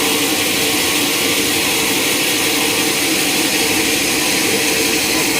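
Sawmill machinery running steadily: a continuous loud hiss with a faint steady hum underneath.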